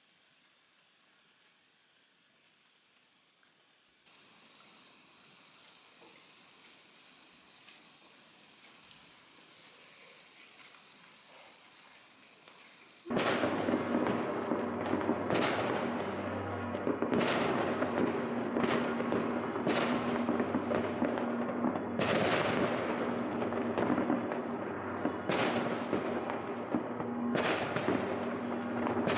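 Fireworks going off: after a quiet stretch with faint hiss, a sudden loud run of bangs begins about halfway through, roughly one a second, each with a fading crackle.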